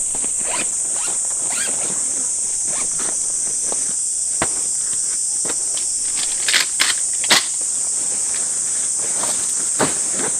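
Steady high-pitched drone of an insect chorus, with intermittent rustles and clicks of gear being handled close by and a short run of sharper clicks a little past the middle.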